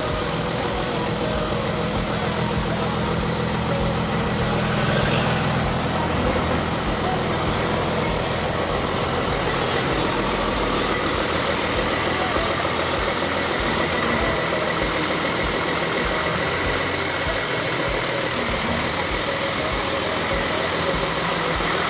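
A car running, with a steady engine hum and a constant noisy rush.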